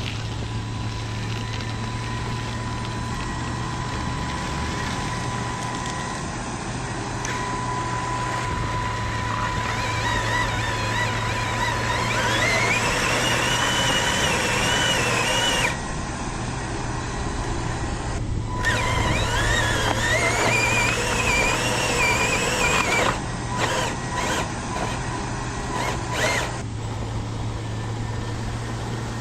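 Electric motors of radio-controlled construction models whining over a steady low hum. Twice the whine rises and wavers in pitch for several seconds, as the models work under load.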